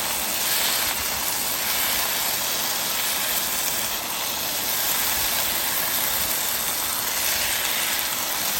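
Chicken and onion filling frying in a hot pan, a steady sizzle.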